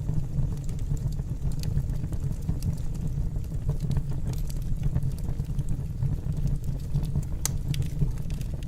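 Wood fire burning in a fireplace, with a steady low rumble from the flames and scattered sharp crackles and pops from the burning wood.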